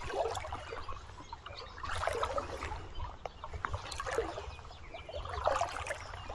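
Shallow river water splashing and trickling, surging about every two seconds, as when someone wades through it.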